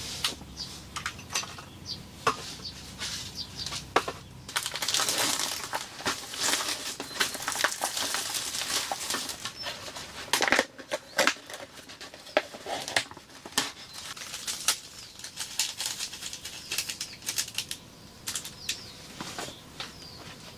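Irregular clicks and knocks with rustling, densest in a stretch of a few seconds near the middle, like objects being handled and set down.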